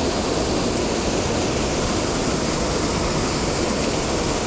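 Mountain stream rushing steadily over rocks, a constant full rush of water.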